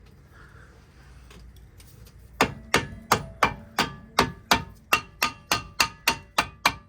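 Hammer tapping on metal brake parts, about a dozen even taps at roughly three a second, each with a short metallic ring, starting a couple of seconds in.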